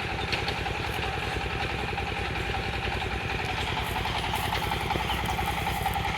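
A motor engine idling steadily with an even, low, rhythmic hum, unchanged throughout.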